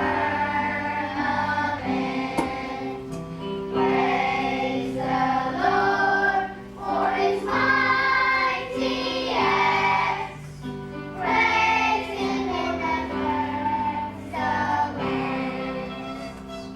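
Children's choir singing a praise song with instrumental accompaniment.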